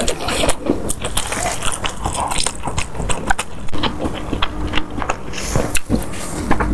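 Close-miked eating: a rapid, irregular run of crisp crunches and chewing.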